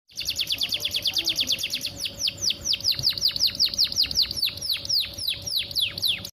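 Female domestic canary calling: a fast run of short chirps, about eight a second, then from about two seconds in a series of steeply falling whistled notes, about four a second. It is a call used to stir male canaries into song.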